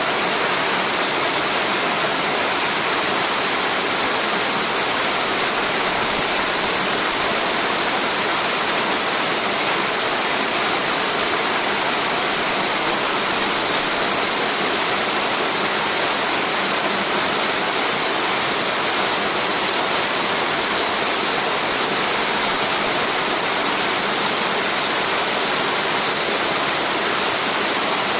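Steady, unbroken rush of falling water from a tiered cascade waterfall.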